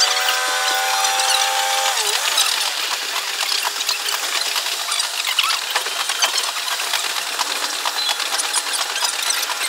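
Sound from inside a diesel railcar played at six times speed. The engine's note is sped up into a high stack of tones that holds steady and then drops away about two seconds in, giving way to a fast, dense clatter of wheels running over the rails.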